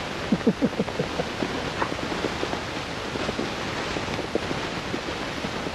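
Blizzard wind blowing hard across the microphone, a steady rushing noise, with a quick run of short crackles about half a second in.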